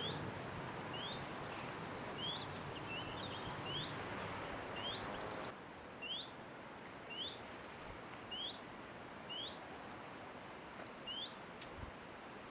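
A small songbird repeats a short rising call note about once a second over a faint steady background hiss.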